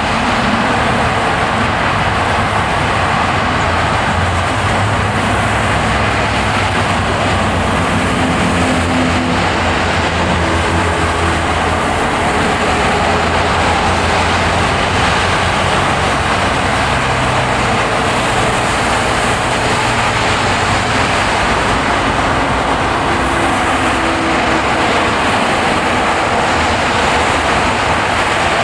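Car driving on a plowed, snowy road: steady tyre and road noise with a low engine hum underneath.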